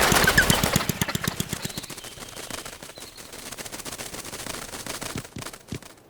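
Cartoon sound effect of a small backpack propeller motor rattling in rapid clicks, fading quickly, then sputtering a few times before cutting out, as if the engine is dying.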